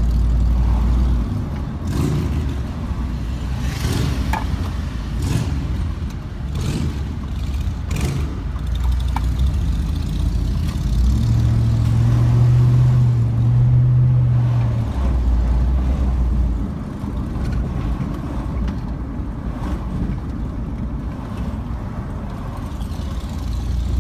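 Motor vehicle engine running at low speed with road noise, a low steady rumble throughout. A steady humming tone comes in for a few seconds around the middle.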